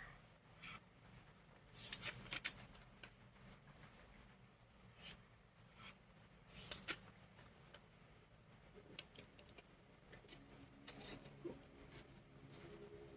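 Faint, scattered crackles and rustles of origami paper being handled and creased by hand, over a low steady hum.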